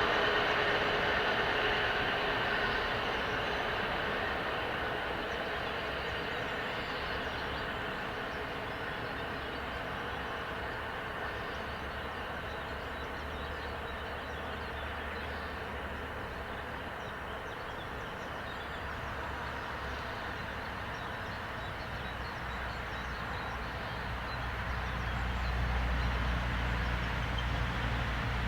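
A train rolling past on the track, with a steady rumble and rattle of wheels on rails. The noise eases off through the middle, and a low rumble grows again near the end.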